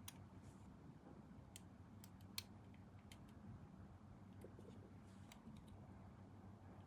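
Faint, scattered light clicks and taps of small plastic kit parts and hobby tools being handled on a workbench, about half a dozen, the sharpest about two and a half seconds in, over a steady low hum.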